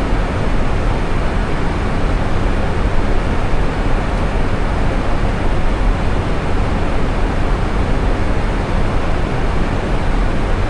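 Steady cockpit noise inside an Airbus A320 on approach: an even, unbroken rush with a heavy low rumble.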